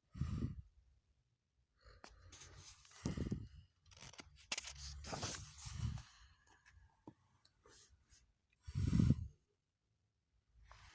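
A person's breaths and sighs, several separate bursts with silence between, the loudest about nine seconds in.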